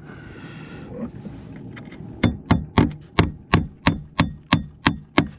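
A hammer driving a nail home with about eleven quick, even strikes, roughly three a second, each with a slight metallic ring, after a short hiss at the start. This is the nailing of fibre-cement slates.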